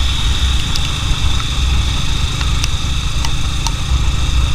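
Riding noise from a moving motorcycle: wind buffeting the microphone in a heavy low rumble over the running engine, with a steady high hum.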